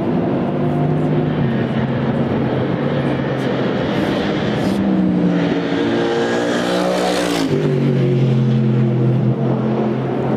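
Racing car engines at full race exhaust volume, one car or more running past; one passes close and loudest about six to seven and a half seconds in, its pitch dropping as it goes by.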